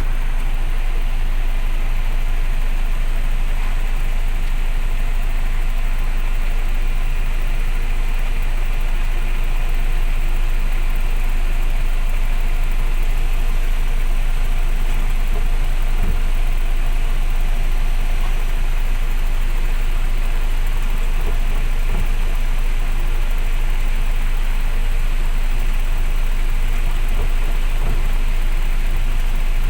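A vehicle engine idling, a steady low rumble with an even hiss over it.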